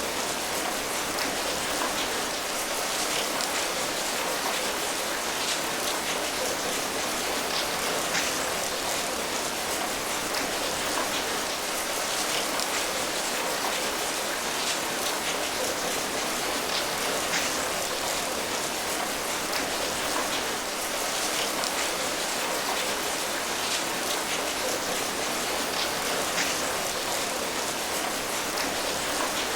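Steady rain falling, an even hiss of rainfall with scattered individual drops pattering on a surface.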